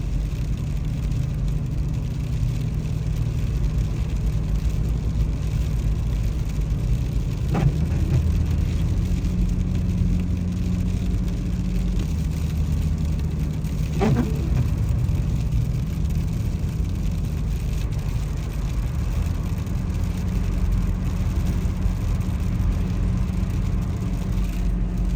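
Car driving slowly, heard from inside: a steady low engine and road rumble, with a short sound twice, about six seconds apart.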